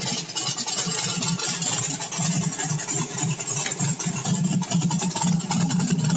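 Small-block V8 running on E85 through a CSU blow-through carburetor, idling smoothly at about 800 RPM during its cold-start warm-up, still running rich before the fuel reaches its burn temperature. The idle pulses steadily and grows slightly louder in the second half.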